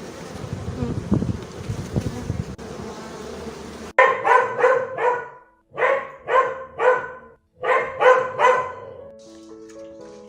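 An animal calling in three quick runs of short pitched calls, three or four to a run, after a few seconds of buzzing noise.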